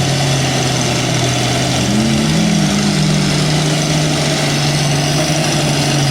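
Pickup truck engine running steadily, its revs rising briefly about two seconds in and then settling.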